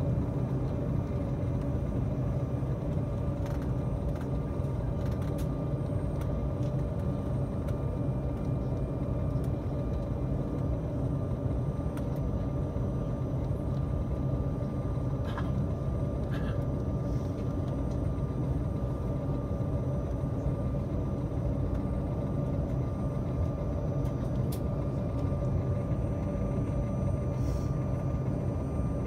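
Cabin noise inside an Embraer 195 airliner while taxiing: the GE CF34 turbofans running steadily at low thrust under a low rumble, with a thin steady whine. Two brief faint sounds come about halfway through.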